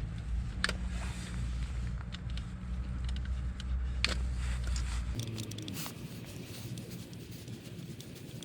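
Light clicks and scrapes of a tool and hands working at Torx T25 screws on a car's blower fan housing, scattered irregularly. A steady low hum underneath cuts off about five seconds in.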